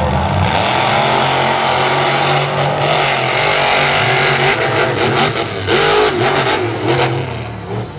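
Monster truck engines revving hard at full throttle during a race, with a few short sharp cracks between about five and seven seconds in. The engines ease off near the end.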